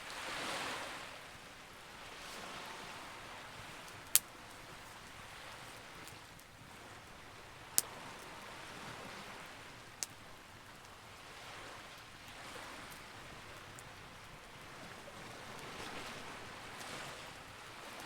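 Campfire with three sharp pops, about 4, 8 and 10 seconds in, over a steady rush of waves that swells and fades every few seconds.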